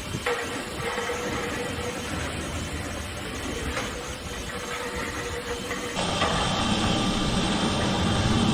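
Dryer vent cleaning equipment running steadily: a motor hum and hiss with a steady whine over it, becoming louder and fuller about six seconds in.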